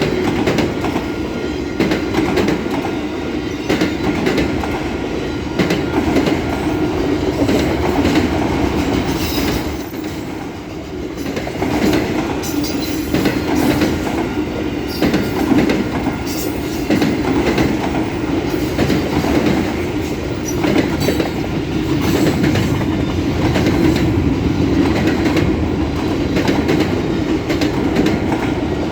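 Freight cars of a long train rolling past at speed: a steady heavy rumble with rapid clattering of wheels over the rail joints and a few brief high wheel squeals. The rumble drops briefly about ten seconds in.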